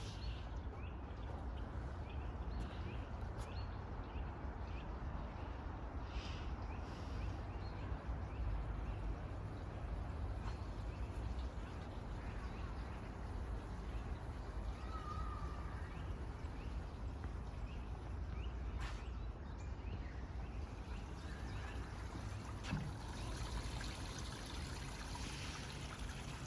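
A garden stream trickling steadily, with a low rumble underneath.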